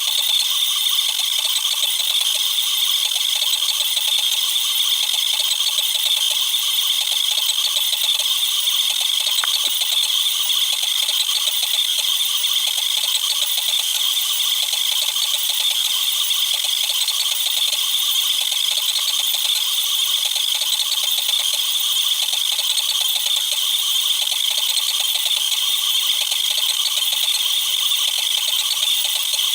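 Cubify Cube 3D printer at work, sped up tenfold: its motors and moving print head become a dense, steady high-pitched rattle.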